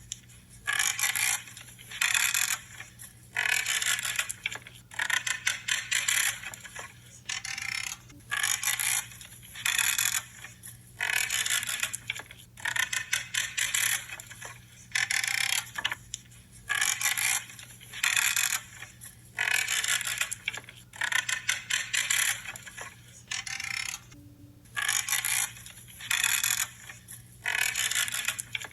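Branches being cut one after another. Each cut is a short creaking, crunching crackle, coming about every second or so, with short pauses between them.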